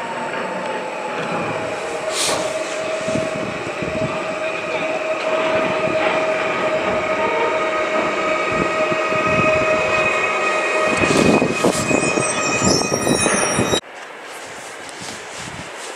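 Electric multiple unit approaching on the station track, its steady motor whine growing louder, then wheels clattering over the rails as it reaches the microphone; the sound cuts off suddenly about 14 seconds in, leaving a quieter distant rumble.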